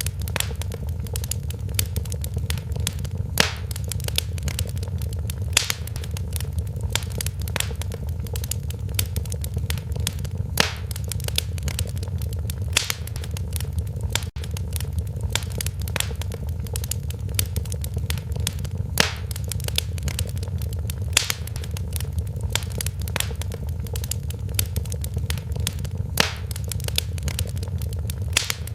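Wood fire crackling in a fireplace: a steady low rumble of burning with a constant scatter of small pops and snaps, and now and then a sharper, louder pop.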